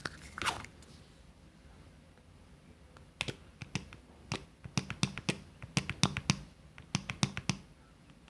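Close-miked ASMR tapping: after about three seconds of quiet, a run of sharp, irregular taps or clicks, two to three a second, that stops shortly before the end.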